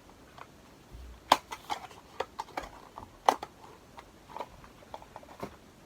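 Irregular clicks and taps of cardboard packaging being handled, with a few sharper knocks.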